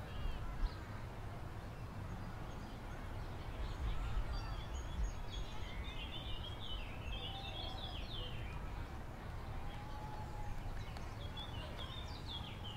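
Birds chirping in a quick run of short calls about six seconds in and again near the end, over a steady low outdoor rumble.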